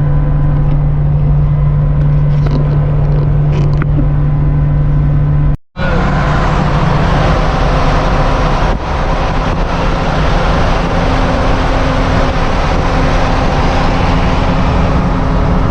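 A vehicle driving at highway speed: a steady low engine hum with road noise. About six seconds in it cuts off abruptly, then resumes as a steadier rush of wind and tyre noise.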